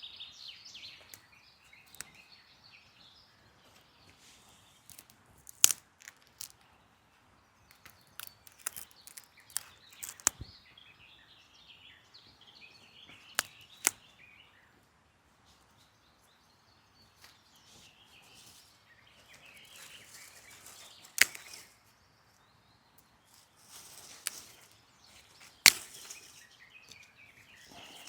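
A few scattered sharp wooden clacks and snaps, as firewood is split and worked by hand for a campfire, with birds chirping in the background.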